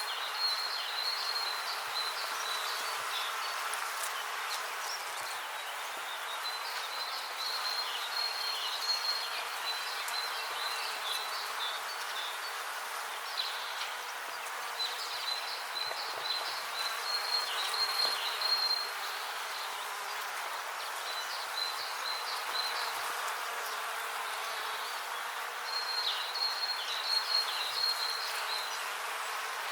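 Bees buzzing in a steady, even hum, with spells of high, repeated chirping coming and going over it.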